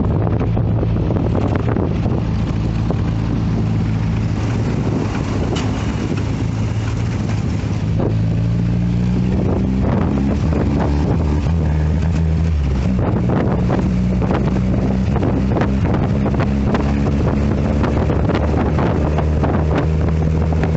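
Triumph Spitfire's four-cylinder engine running while driving, its note shifting up and down a few times with speed and gear changes, with wind buffeting the microphone in the open car.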